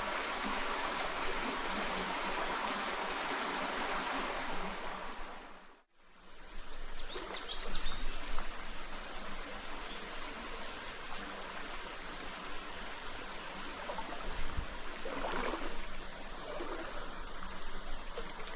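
Stream water running steadily. It fades out briefly about six seconds in and comes back, with a few short splashy sounds later on.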